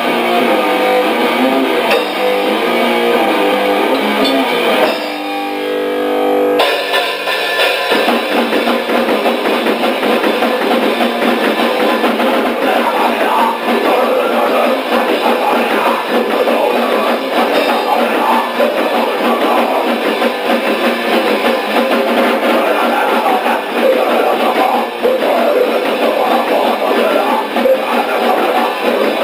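D-beat raw punk played by electric guitar and drum kit on a thin, lo-fi demo recording. About five seconds in, the guitar rings out alone briefly, then the drums and guitar crash back in at full speed.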